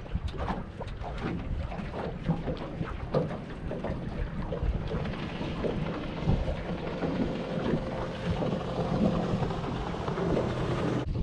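Strong wind buffeting the microphone in a constant low rumble, with choppy water slapping and splashing against the boat in many short irregular strokes.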